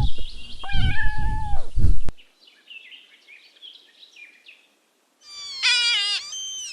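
Kitten meowing: a high meow at the very start and another about a second in. Faint high chirps follow, then a wavering high call near the end.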